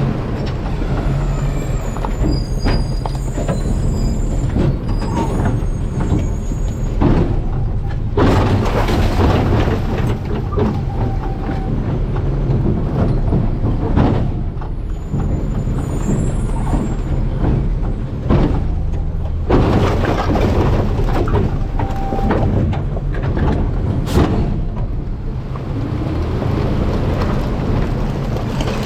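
Garbage truck engine running steadily, with repeated bouts of crunching, cracking and knocking as trash is packed in the hopper.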